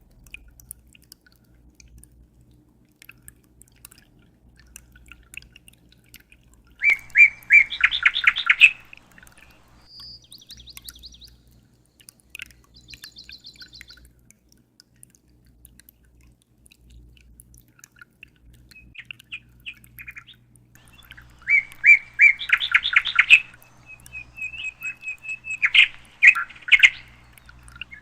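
Songbirds singing. A loud, rapid trilled phrase comes about seven seconds in and again about twenty-two seconds in, with scattered short chirps and a held whistled note between.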